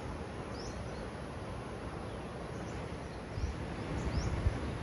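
Steady outdoor ambient hiss with a few short, rising bird chirps scattered through it, and some low rumbles over the last second or so.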